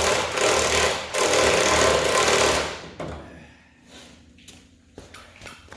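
Impact wrench hammering on a subframe bolt in two long runs, breaking off briefly about a second in and stopping near the 3-second mark, followed by faint clicks of handling.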